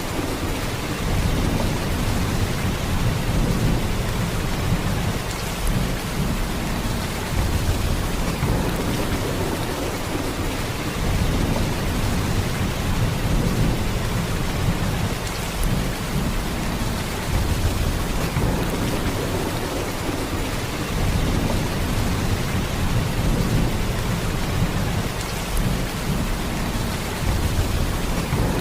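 Heavy rain, a steady downpour with a deep low rumble that swells and eases every few seconds.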